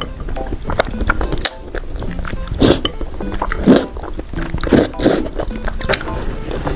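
Close-miked chewing and mouth sounds of a person eating, with wet clicks and a few louder bites or slurps about once a second, over quiet background music.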